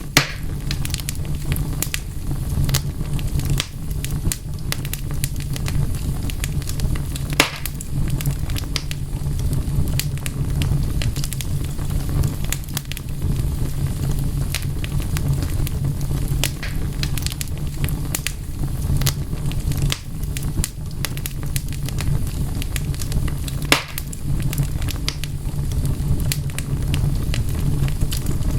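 Wood fire crackling, with constant small pops over a steady low rumble. Two louder pops stand out, one about seven seconds in and one about twenty-four seconds in.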